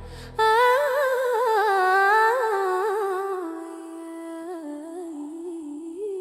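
Music: a wordless humming voice carrying a wavering, sliding melody, which drops lower and softer about halfway through.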